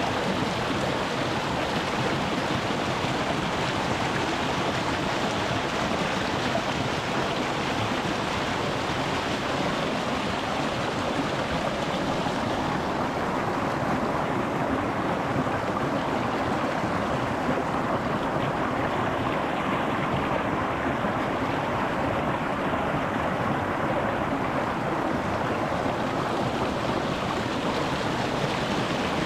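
A shallow rocky mountain stream running over stones close to the microphone: a steady rushing and babbling of water, its hiss softening a little about halfway through.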